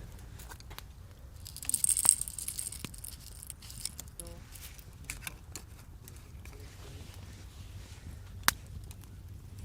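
Crackling and scattered clicks from a charcoal cooking fire, with a brief hissing burst about two seconds in and one sharp snap near the end.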